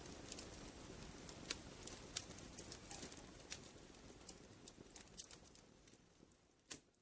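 Wood fire crackling in a fireplace: irregular sharp pops and snaps over a soft low rush of flames, fading out near the end.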